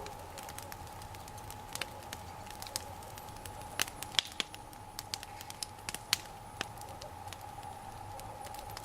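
Bonfire of raspberry canes and dry boards burning, crackling with irregular sharp pops and snaps.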